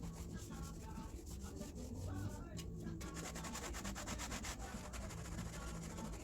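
Hand scrubbing on a car's body: repeated rubbing strokes, with a low steady hum underneath.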